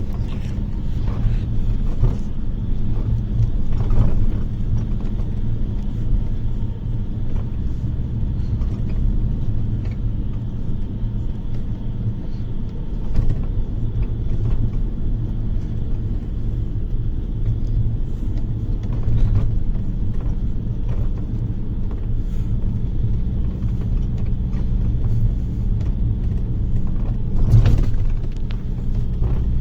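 Inside a moving bus: a steady low rumble of engine and road, broken by occasional knocks and rattles, the loudest near the end.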